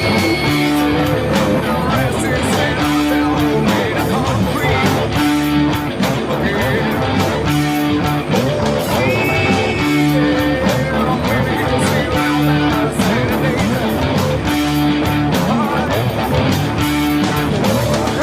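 Electric guitar playing a rock intro riff through an amp, a repeating phrase with sliding notes.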